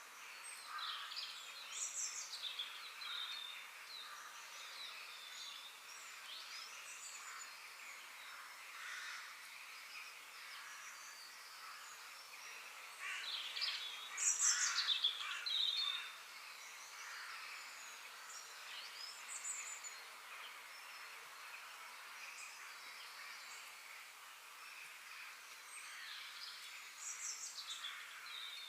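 Several birds chirping and singing in short, varied calls, with a louder burst of song about 13 to 16 seconds in.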